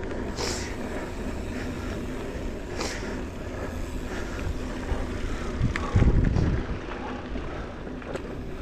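Trail bike riding along dirt single track: a steady low running rumble with a few light clicks, and a loud low thump about six seconds in.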